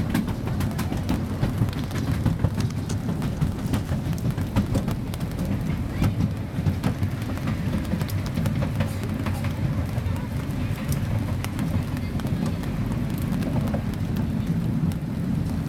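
Small park train running, heard from aboard: a steady low rumble with scattered rattles and clicks.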